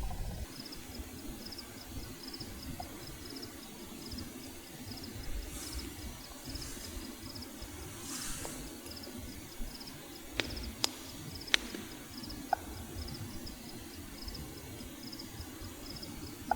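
A cricket chirps in a steady, fast-pulsing high trill over the low, steady rumble of a pot of water boiling with eggs in it. A few sharp clicks come in the middle.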